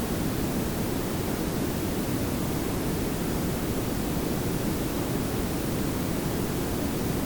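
Layered pink and brown noise: a steady, even hiss with most of its weight in a low rumble.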